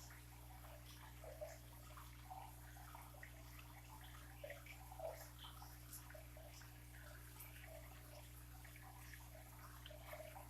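Faint aquarium water bubbling and trickling in small irregular blips, over a steady low hum.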